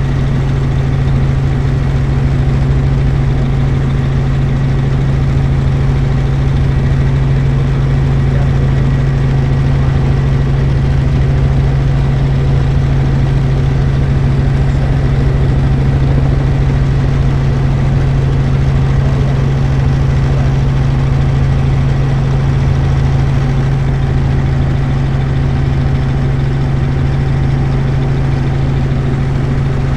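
Helicopter in flight: a loud, steady drone with a strong low hum that holds unchanged throughout.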